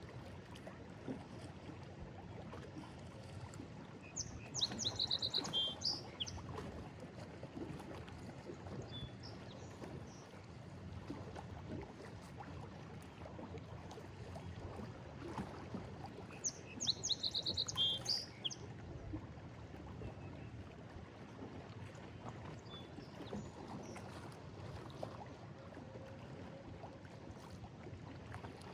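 Lake waves washing steadily against a stone break wall. Twice a bird sings a short burst of rapid high chirps, about four seconds in and again about seventeen seconds in.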